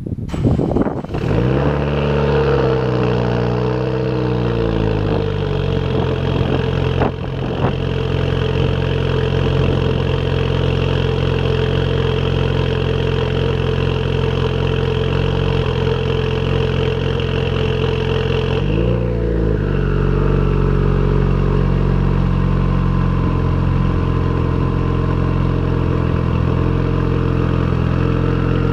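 A 2016 Subaru WRX's turbocharged flat-four, fitted with an aftermarket exhaust manifold, running at a steady engine speed. The note wavers for the first few seconds, dips briefly and picks up again about 19 seconds in, then holds steady while a fainter whine slowly rises.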